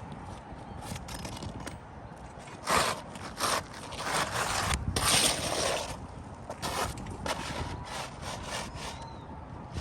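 Asphalt shingles scraped and rubbed as a roof snake works under them to free the tab, in a series of short rasping strokes with the loudest, longest scraping around the middle.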